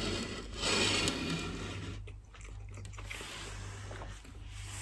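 Close-miked chewing of food, loudest about a second in and then quieter.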